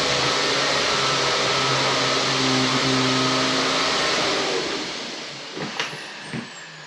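Bissell pet vacuum cleaner running steadily, then switched off about four seconds in, its motor winding down with a falling pitch. A few light knocks follow near the end.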